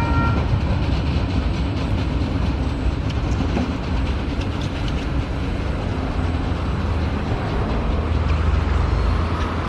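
Freight train's wagons rolling away along the track: a steady low rumble with a few faint clicks. A brief high whine of steady tones, typical of wheel squeal, stops just after the start.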